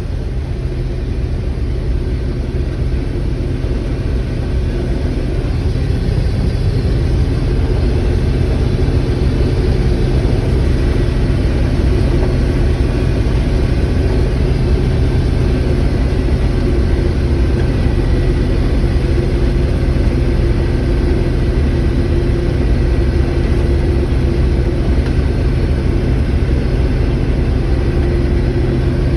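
Combine harvester running steadily while harvesting corn: a loud, even drone of engine and machinery with a steady low hum throughout.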